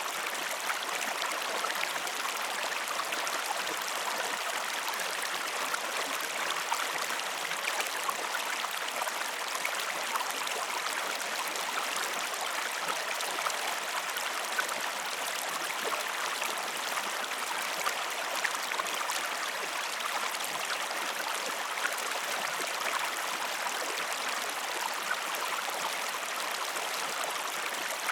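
Flowing stream water running steadily, with fine trickling and splashing throughout.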